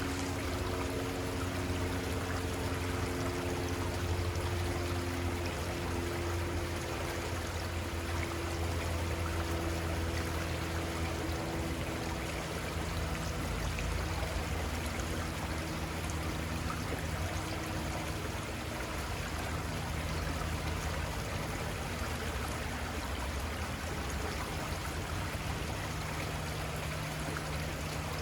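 Little Conestoga River flowing: a steady rush of running water, with a faint low hum beneath it that comes and goes.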